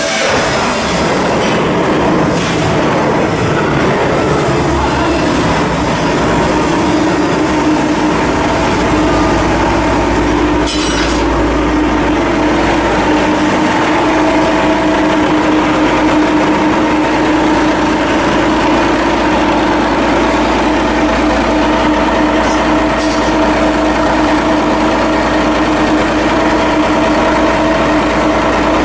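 Heavy machinery running steadily with a constant hum, joined about eight seconds in by a deep rumble that continues throughout.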